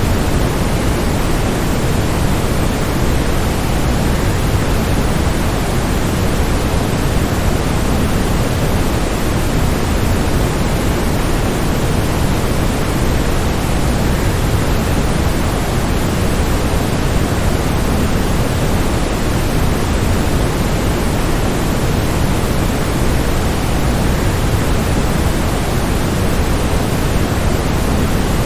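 Steady, unbroken rush of a waterfall: an even noise that is heaviest in the low end and thins toward the highs, with no change through the stretch.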